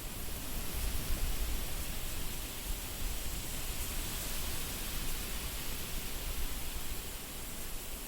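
Wind blowing steadily, with a low rumble that rises and falls with the gusts under an even hiss, a little stronger about a second in.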